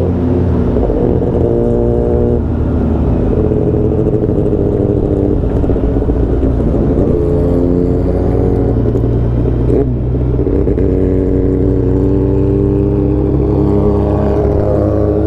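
Superbike engine running at steady cruising revs, its pitch holding level and stepping up or down every few seconds, with a quick dip and rise about ten seconds in.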